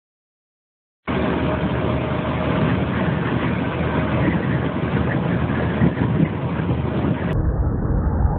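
Silence for about a second, then steady loud wind and road noise from traffic on a highway in high winds, with no clear engine note. Near the end the sound changes abruptly to a duller, more muffled recording.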